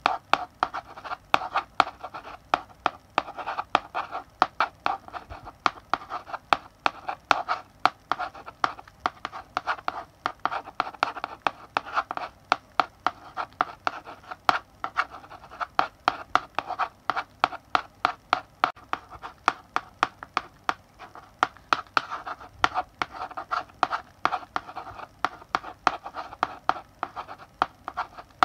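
Chalk writing on a blackboard: a rapid, irregular run of sharp taps and short scratchy strokes as letters are written.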